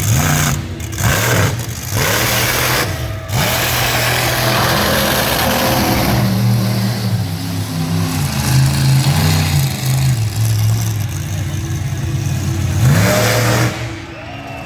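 Monster truck engine revving hard, its pitch climbing and falling again and again, easing off briefly near the end before picking up again.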